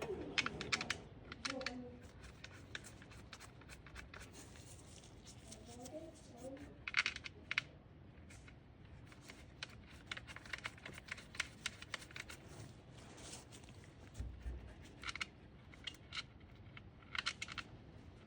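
Hand tools working on the engine bay of a Ford Ranger: scattered short metallic clicks and scrapes in clusters, with pauses between. A cat meows faintly near the start and again about six seconds in.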